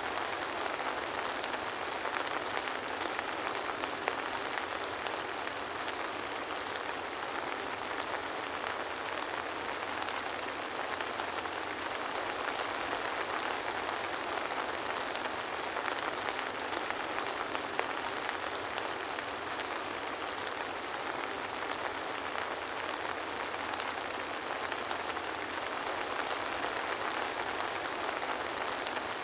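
Steady soft rain falling, a continuous even hiss with fine pattering drops and no thunder.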